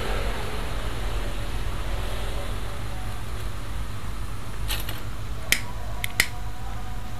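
A few short, sharp clicks over a steady low hum, the clicks coming close together from just under five to just past six seconds in.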